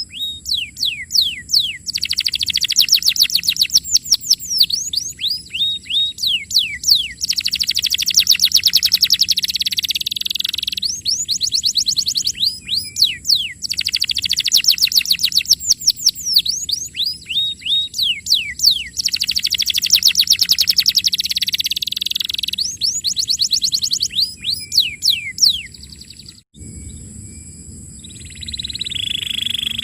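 Canary singing long, rapid trills: phrases of fast-repeated notes, many sweeping downward in pitch, with brief pauses between them. About three seconds before the end the song cuts off abruptly, and a quieter stretch with a low hum and scattered chirps follows.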